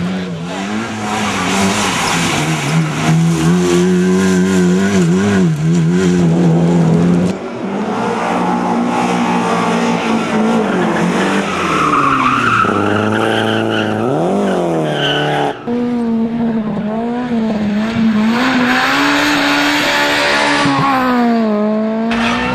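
Rally car engines revving hard, their pitch rising and dropping with throttle and gear changes, with tyres squealing and sliding on the stage. The sound changes abruptly twice, at about 7 and 15 seconds, as one shot cuts to the next.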